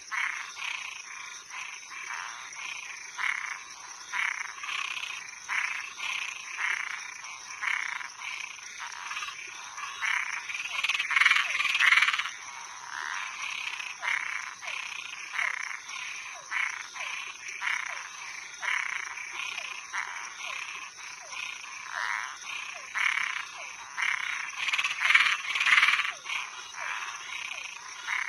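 Night chorus of frogs and treefrogs calling, many short overlapping calls repeating over and over, swelling louder around the middle and again near the end. A steady high insect trill runs underneath.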